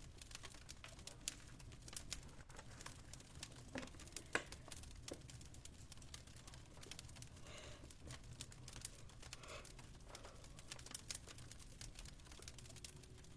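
Wood fire crackling faintly: irregular small pops and snaps over a low steady hum, with a few sharper pops about four seconds in.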